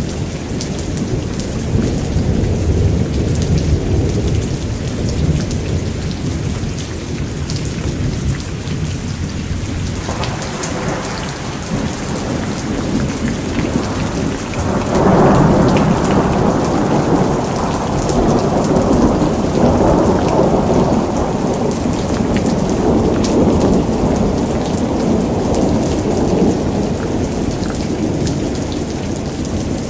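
Steady rain with rolling thunder: a low rumble under the rain for the first ten seconds, then a louder peal about fifteen seconds in that rumbles on for several seconds.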